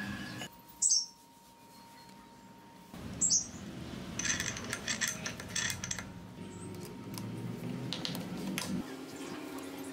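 Light metallic clinks and clicks of parts and tools being handled, in several short takes cut together.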